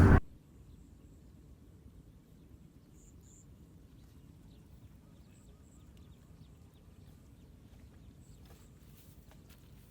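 Loud rushing water cuts off abruptly at the very start, leaving faint outdoor ambience: a low steady hum, a few soft high chirps in pairs, and scattered light ticks near the end.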